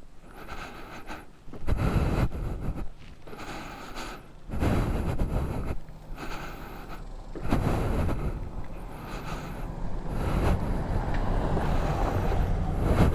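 A vehicle driving across the wooden deck of a suspension bridge: a low engine hum with uneven surges of rumbling as it rolls over the planks.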